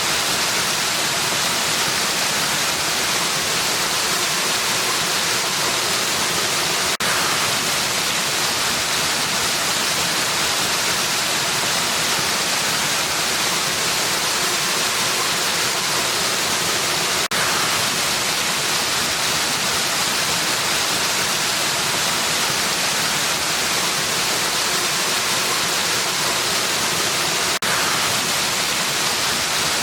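Steady, even rush of water falling in a waterfall, with three brief dips about ten seconds apart.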